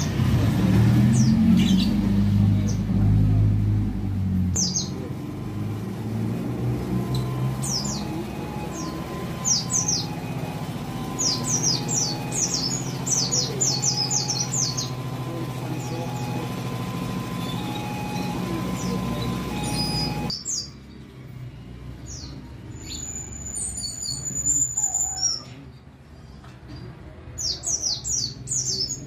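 White-eye (pleci) song: runs of rapid, high, steeply falling chirps, thickest in the middle and again near the end. A low rumble sits under the first several seconds, and the background noise drops away suddenly about two-thirds through.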